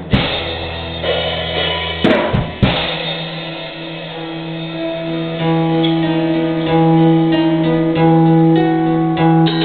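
Live rock band with drum kit and guitars, no vocals: drum and cymbal hits at the start and again about two seconds in, then guitars and bass hold ringing chords that swell a little after about five seconds.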